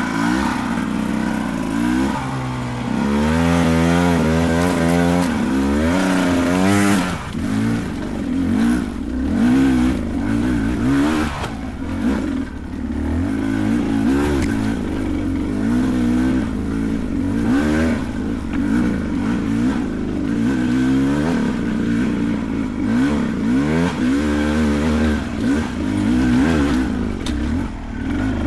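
Beta 300 Race two-stroke dirt bike engine revving up and down again and again in quick swells of pitch, with a few short knocks.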